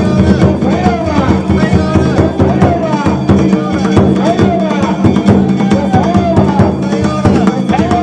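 Danjiri float's festival drums and gongs playing without a break, a dense run of loud strikes with ringing metal tones over them.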